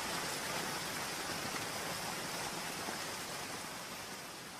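Recorded rain: an even hiss of steady rainfall that fades slowly.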